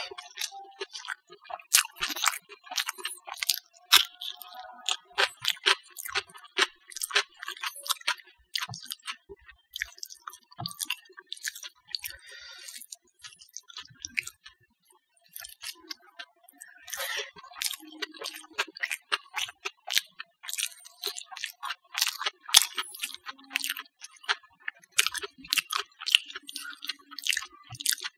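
Close-up mouth sounds of a person eating rice, mashed potato and omelet by hand: an irregular run of sharp, wet chewing and lip-smacking clicks, with a short pause about halfway through.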